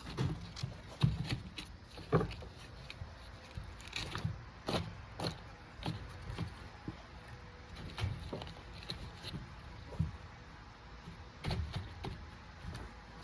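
A galvanized-wire hook latch and the filter box being handled: scattered light clicks, taps and scrapes at irregular intervals.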